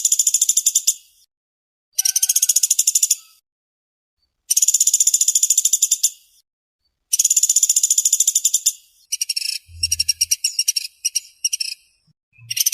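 Small woodpecker (pelatuk beras, also called pelatuk sampit) calling in rapid, tightly packed, high-pitched trills, each lasting a second or so, four in a row with short gaps. Near the end the notes break into a choppier, stuttering run.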